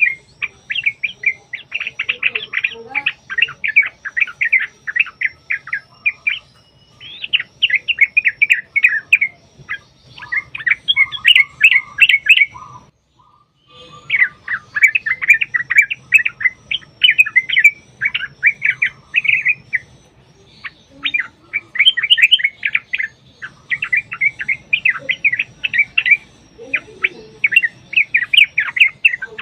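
Yellow-vented bulbul (trucukan) singing long, rapid runs of bubbling, chattering notes in phrases of a few seconds, broken by a short full stop about halfway through.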